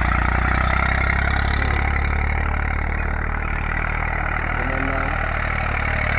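Eicher 380 tractor's diesel engine running steadily, with an even, slightly pulsing note.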